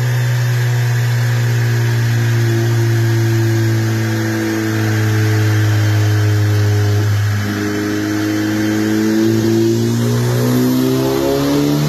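Honda Civic Type R FL5's turbocharged 2.0-litre four-cylinder, tuned to about 516 hp, running under steady load with an even drone. About seven seconds in the note changes, then near the end the pitch climbs steadily as the engine revs up under acceleration.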